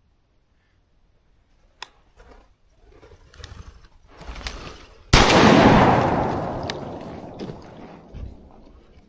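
A few clicks and rustling, then about five seconds in one sudden loud bang whose echo fades away over about three seconds.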